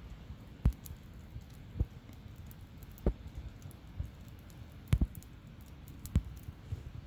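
Wood campfire crackling, with irregular sharp pops a second or so apart, two close together about five seconds in.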